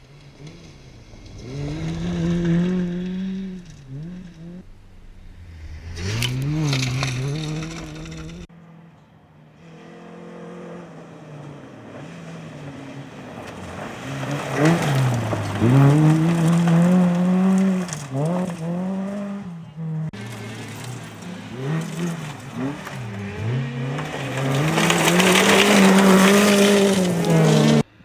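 Fiat Cinquecento rally car's engine revving hard, its pitch climbing and falling again and again with gear changes and lifts off the throttle. The sound is in several short pieces with abrupt cuts about a third and about two-thirds of the way through.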